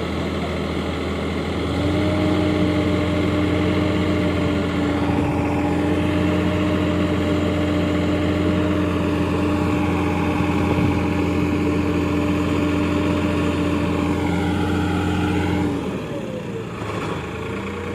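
Heavy diesel engine picking up to high, steady revs about two seconds in and holding them under load, then throttling back near the end.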